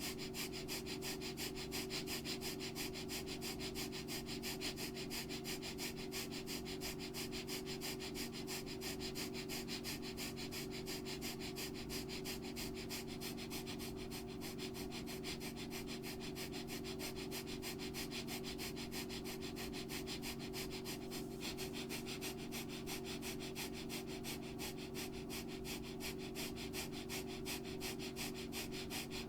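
Bellows breath (bhastrika) pranayama: a person breathing hard and fast through the nose, inhales and exhales pumped equally from the diaphragm and belly in an even, rapid rhythm of sniff-like strokes. A steady low hum runs underneath.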